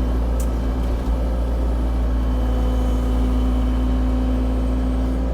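CAT 304 E2 mini excavator's diesel engine running steadily under load as the bucket and thumb pull vines and brush loose, with a single sharp click about half a second in.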